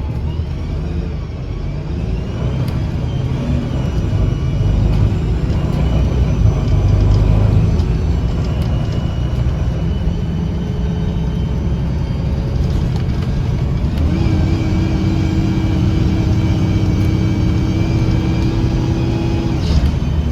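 A 2009 Gillig BRT 40-foot bus's engine and Voith transmission running under load, heard from inside the cabin, growing louder over the first several seconds as the bus accelerates. About two-thirds of the way through, a steady hum joins in and cuts off suddenly near the end.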